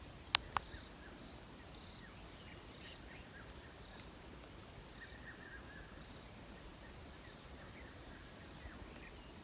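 Faint outdoor ambience with scattered short, distant bird calls. Two sharp clicks come close together about half a second in.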